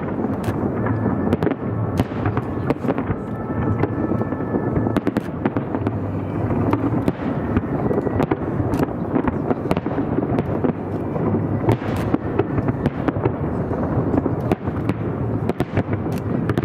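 Firework display in full barrage: a constant rumble of overlapping shell bursts, broken by many sharp bangs and crackles in quick succession.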